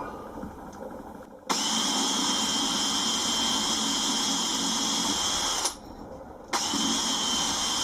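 Electric drill running a small pilot bit through a kitchen cupboard door for a handle hole. The drill runs steadily with a constant whine for about four seconds, stops briefly, then runs again for about a second and a half.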